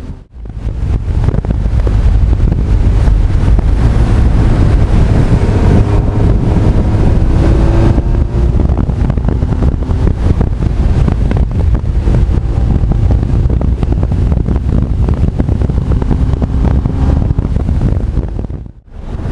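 Honda CB1300 Super Bol d'Or's inline-four engine running at speed, largely buried under heavy wind buffeting on the camera microphone; the engine pitch rises a little about eight seconds in. The sound drops out briefly just after the start and again near the end.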